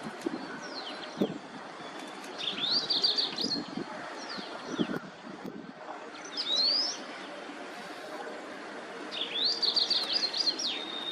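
White-browed wagtail singing: three short phrases of quick high notes, about two and a half seconds in, at six and a half seconds, and again around nine to ten and a half seconds, over a steady background hiss.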